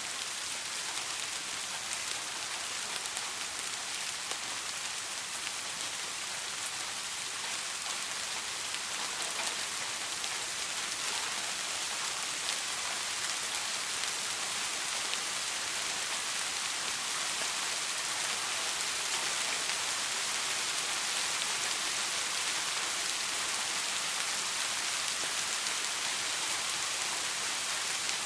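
Steady soft rain: an even hiss of rain with many small drops pattering on a surface, and no thunder.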